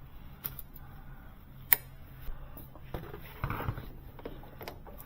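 Clicks and knocks of tools and parts being handled at a workbench, the sharpest about two seconds in, with a brief rustle about three and a half seconds in, over a low steady hum.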